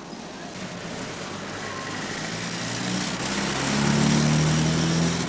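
Street traffic: a motor vehicle's engine running, growing louder from about two seconds in and loudest near the end, over a steady hiss of traffic noise.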